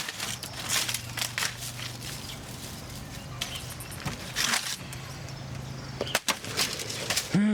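Machete chopping plant material: irregular strikes with rustling, several in quick succession near the end, over a faint steady low hum.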